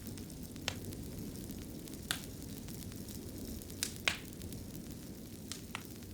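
Wood fire crackling in a fireplace: irregular sharp pops and snaps, the loudest about four seconds in, over a steady low rumble of the burning fire.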